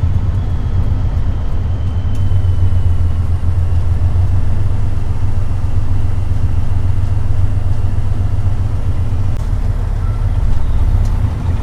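Heavy truck's engine running steadily under way, heard from inside the cab as a loud, low, even rumble.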